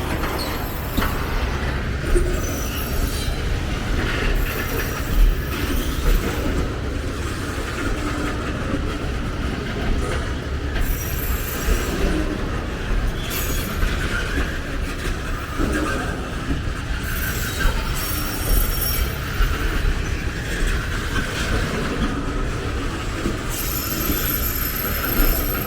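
A train running past at close range: a steady rumble of wheels on the rails, with high-pitched wheel squeals that come and go several times.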